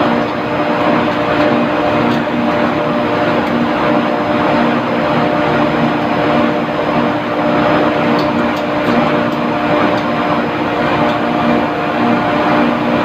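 Running industrial machinery: a steady, loud mechanical drone with a constant hum of several held tones over an even rush of noise, with no change throughout.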